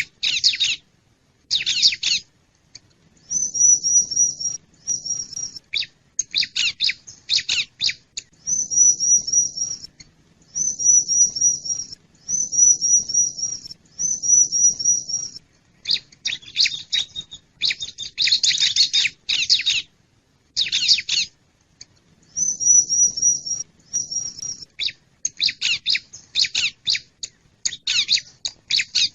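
Bar-winged prinia (ciblek) calling in a lure recording. Phrases of fast, dense chattering alternate with runs of evenly repeated high, thin notes, each phrase lasting one to two seconds with short pauses between.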